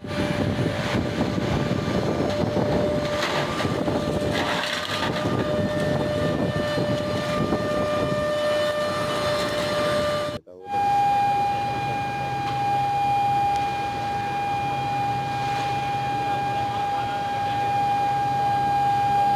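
Steel rebar mill machinery running: a loud, rough rumble with a steady whine over it. After a cut about halfway through, it gives way to a steady high-pitched whine over a low hum.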